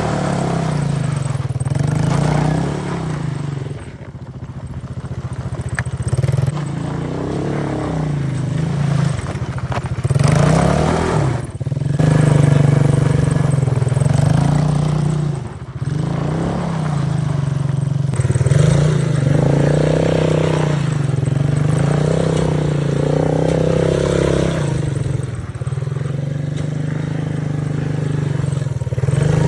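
Motoland Coyote 125 quad bike's small single-cylinder engine revving up and down over and over under hard riding, its note dropping away briefly three times as the throttle is let off.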